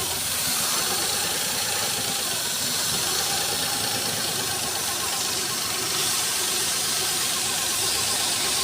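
Car engine idling steadily, an engine being checked for a misfire by testing its ignition coils.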